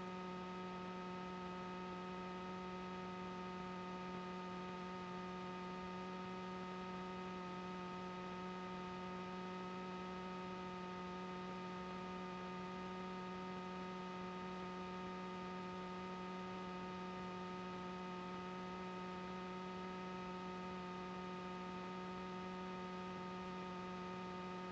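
Steady electrical hum and buzz: one low pitched tone with a string of overtones above it, unchanging throughout, as heard on an aircraft audio feed between transmissions.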